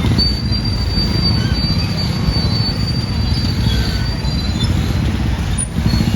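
Train wheels squealing on the rails: one thin, steady, high-pitched squeal that fades out about four seconds in, over a continuous low rumble.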